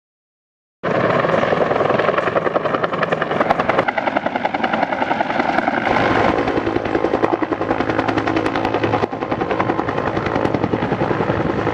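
Helicopter running close by, its rotor blades making a fast, steady chopping beat, starting abruptly about a second in.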